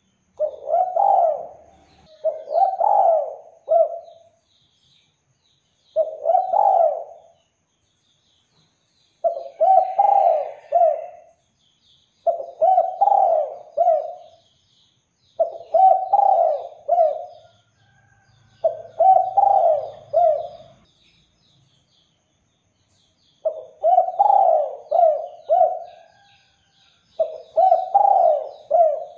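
Spotted dove (derkuku) cooing repeatedly: about nine separate phrases of several low, pulsing coos, each phrase a second or two long with short pauses between. Small birds chirp faintly and high in the background.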